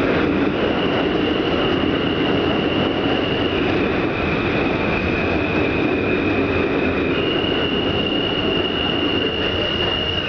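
Kawasaki/Alstom R160 subway train running through the station with a steady rumble of wheels and motors. Over it is a high whine that steps between two close pitches every few seconds.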